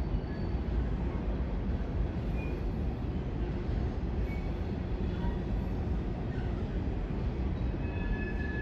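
Train rolling past: a steady rumble of rail cars on the track, with a high, steady wheel squeal setting in near the end.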